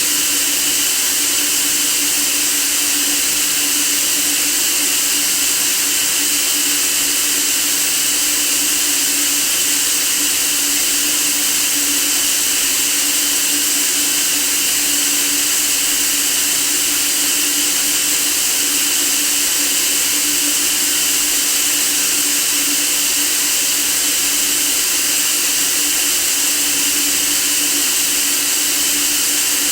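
White noise for sleeping: a steady, even hiss weighted toward the high end, with a faint steady hum underneath.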